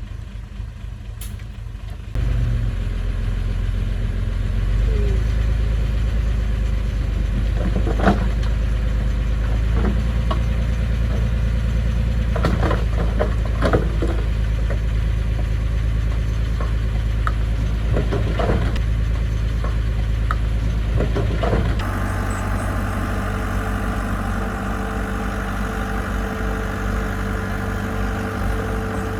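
Diesel engine of heavy construction equipment running, with scattered metallic clanks and knocks through the middle. The engine sound jumps abruptly twice, once a couple of seconds in and once near the end.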